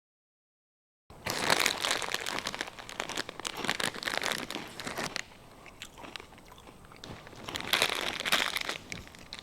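Someone chewing crunchy Cheetos close to the microphone: loud crunching starts about a second in and runs for about four seconds, eases off, then comes again briefly near the end.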